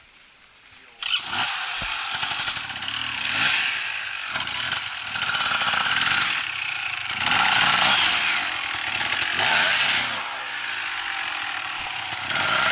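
Off-road motorcycle engine revved hard, surging up and down as the rider throttles through a climb. It starts abruptly about a second in.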